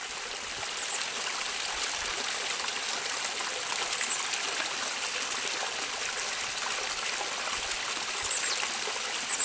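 A small waterfall in a mountain stream: water pouring and splashing steadily over rocks.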